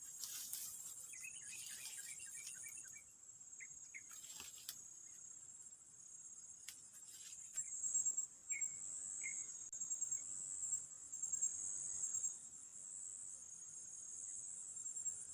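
Insect chorus, a steady high-pitched trilling, with a few faint short chirps over it now and then.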